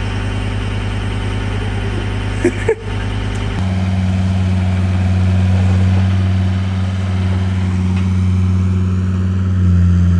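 A vehicle engine, most likely a truck's, idling steadily. About three and a half seconds in, the deepest rumble drops away and a steadier, stronger hum takes over. A couple of brief clicks come just before that change.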